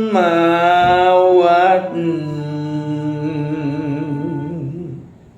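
A singer ends a Thai song on a long held note that wavers in pitch, fading away near the end.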